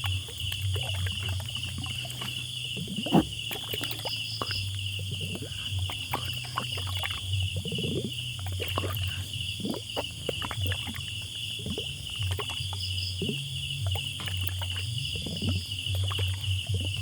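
Countryside nature ambience: wild animal calls sounding again and again over a steady, finely pulsing high chirring and a low hum.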